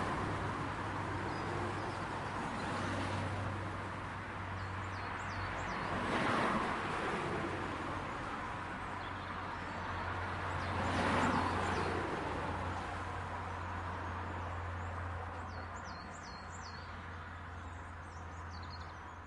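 Residential street traffic: cars passing by, two passes swelling and fading about six and eleven seconds in, over a steady low hum. Small birds chirp now and then, more often near the end.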